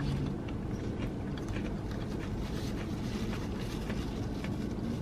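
Soft chewing and the rustle of a paper napkin being used to wipe greasy fingers, over a steady low hum inside the car.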